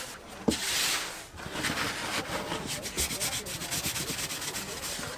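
Dough being rolled and twisted by hand on a work table, in repeated rubbing strokes, with a thump about half a second in.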